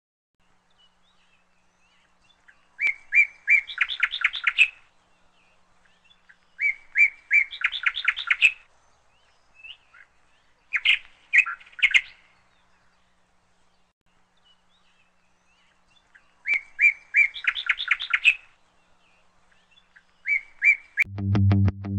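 A songbird singing, repeating one phrase about every four seconds: a few clear whistled notes that run into a fast trill. The song comes five times, with quiet in between.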